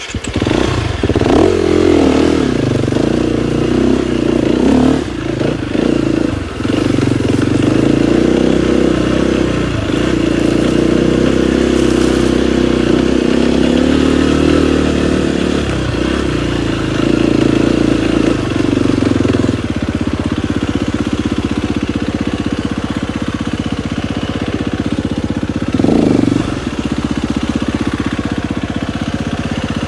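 KTM 250 XCF-W four-stroke single-cylinder dirt bike engine coming in loud at the start, its pitch rising and falling as it revs for about twenty seconds, then settling to a steady lower run, with one brief rev about 26 seconds in.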